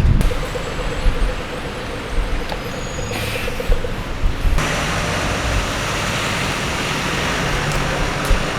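Road traffic: vehicles running past, with a steady hum over the first few seconds, then an abrupt switch to a brighter, hissier traffic noise about four and a half seconds in.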